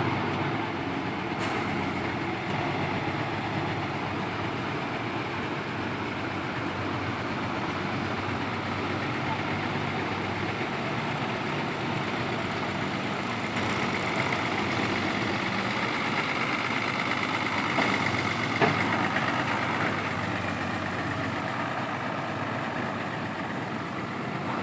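Heavy diesel engine running steadily, with a higher whine coming in about halfway through and a short click a little later.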